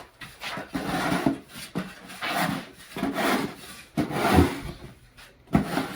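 A series of rough scraping and rubbing strokes coming at irregular intervals.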